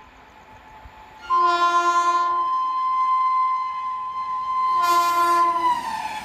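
Electric locomotive's air horn held in a long blast as the train approaches, swelling into two louder full-chord blasts about a second in and near the end, then dropping in pitch as the locomotive passes.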